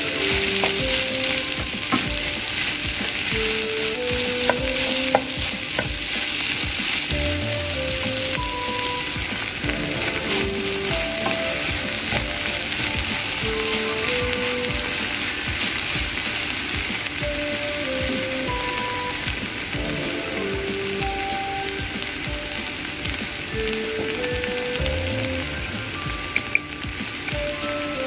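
Finely chopped taro stems sizzling in coconut oil in a frying pan, stirred with a wooden spatula that scrapes and taps the pan. A soft melody of single notes plays quietly under the frying.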